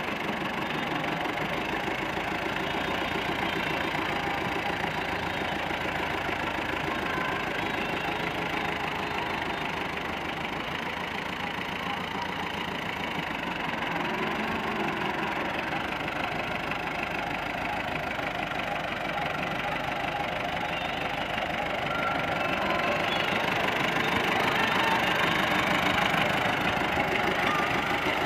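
Tractor engine running steadily, growing somewhat louder near the end.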